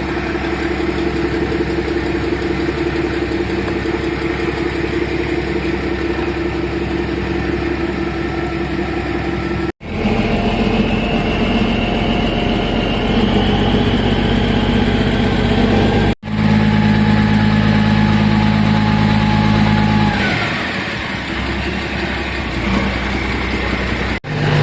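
Ferry engine running with a steady drone, heard in three short shots separated by abrupt cuts. In the middle shot a high whine slowly rises, and near the end the engine note drops away as it throttles back.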